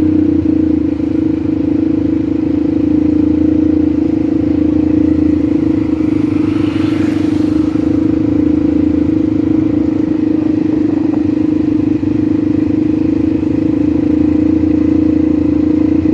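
ATV engine running at a steady pitch under way, with a brief rushing noise swelling and fading about seven seconds in.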